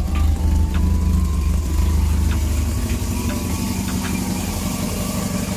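1979 Volvo 244 DL's four-cylinder engine idling steadily, with faint irregular ticks over the top.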